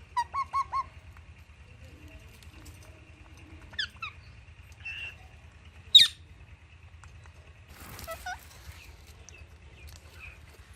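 Pet parrots chirping in short, scattered calls: a quick run of four chirps at the start, a loud sharp call about six seconds in, and a brief rustle around eight seconds.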